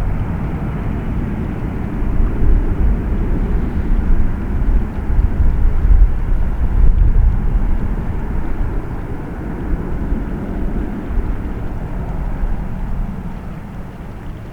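Jet airliner's engines at takeoff power: a loud, rushing rumble that builds to a peak a few seconds in and then slowly fades as the aircraft climbs away.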